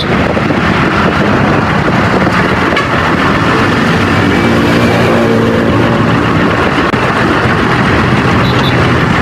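Motor vehicle running, a steady engine and road noise, with a pitched engine hum showing more clearly through the middle.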